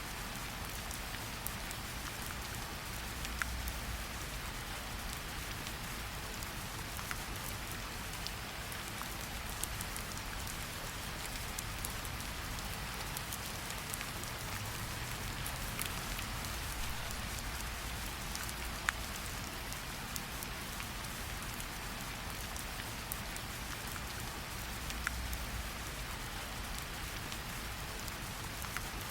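Steady rain falling, an even hiss with scattered sharper drips and ticks on a surface and a soft low rumble beneath.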